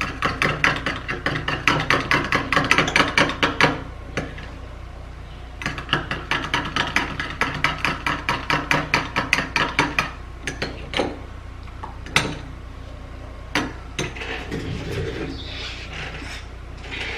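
A spoon stirring a thick mixture fast in a bowl, knocking against the sides in quick even clicks, about six a second. The stirring comes in two long spells with a short pause between, then a few separate knocks.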